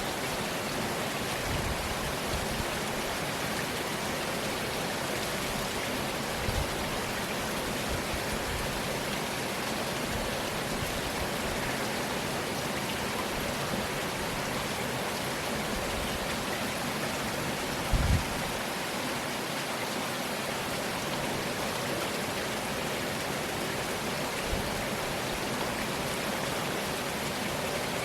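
Steady rain falling in a rainstorm, with a few brief low thumps, the loudest about two-thirds of the way through.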